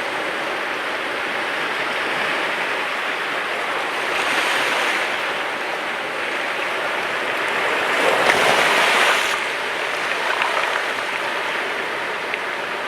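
Sea waves washing onto the shore in a continuous wash, with a louder surge about four seconds in and the strongest wave breaking about eight seconds in.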